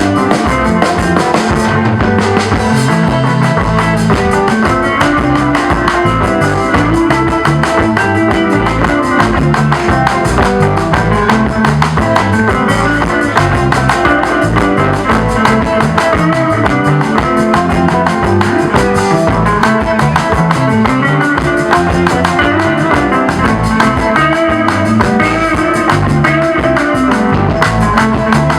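Live Congolese band music: an electric guitar solo over drum kit and bass, playing continuously with a steady beat.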